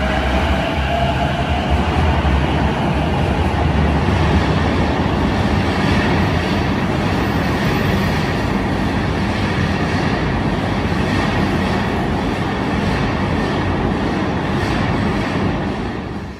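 Keiyo Line E233-series electric commuter train running past along an underground platform: steady rumble of wheels on rail, with the motor whine rising in pitch near the start. The sound drops away abruptly just before the end.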